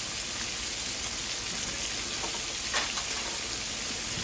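King fish pieces frying in a pot of hot oil, a steady sizzle with a light click partway through.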